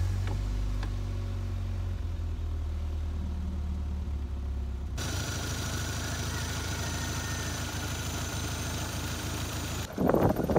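Toyota MR2 Turbo's 3S-GTE turbocharged four-cylinder engine idling steadily just after starting, a little louder in the first second before settling. About halfway a higher hiss joins the idle, and near the end a louder, brief burst of sound cuts in.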